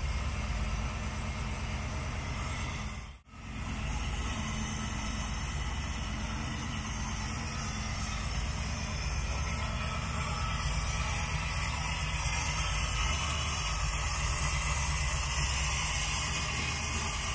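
1967 Camaro's engine idling steadily on its newly installed ACES Killshot throttle-body fuel injection during its first runs, with a hiss over the low engine hum. The sound cuts out briefly about three seconds in and picks up again.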